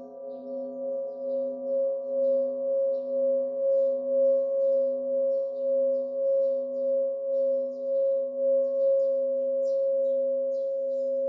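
Tibetan singing bowl ringing with a sustained, throbbing tone that swells and fades about one and a half times a second. Small birds chirp throughout, more often near the end.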